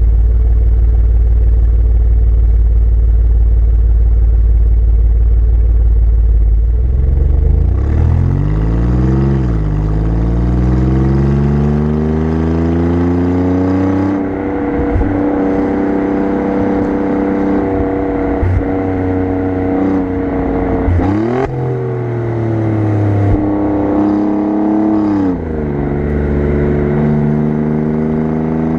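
Exhaust of an Alfa Romeo Giulia Quadrifoglio's twin-turbo V6, heard close up from the rear bumper: a steady low drone, then from about seven seconds in the pitch rises as the car accelerates, dips and climbs again through gear changes, and settles to a steady cruise, with further brief rises and falls near twenty-one and twenty-five seconds in.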